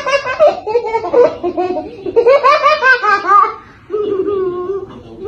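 High-pitched human laughter in two long bouts, followed near the end by a steadier, lower vocal sound.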